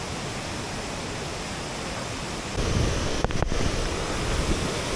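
Waterfall roaring steadily, a continuous rush of falling water; about two and a half seconds in it gets louder and deeper.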